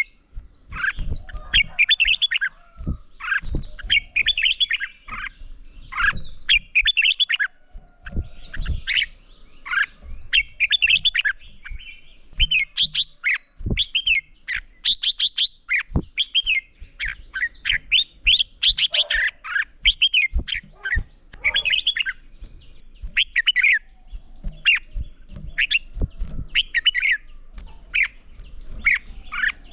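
Red-whiskered bulbuls singing against each other in a dense, unbroken run of short, bright whistled phrases. A few low thumps are mixed in.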